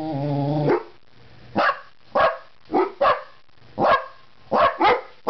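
Dogs, a Jack Russell terrier among them, barking in short sharp barks, about seven of them, some in quick pairs, after a held low note at the start: barking at a stunned bird outside the window.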